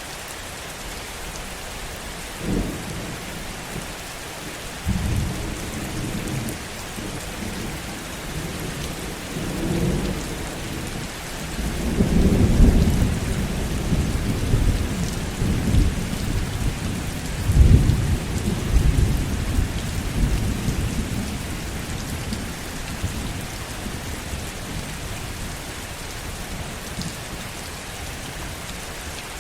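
Steady heavy rain with a long roll of thunder. Low rumbles start a few seconds in, swell to their loudest twice near the middle, and fade away over the last third.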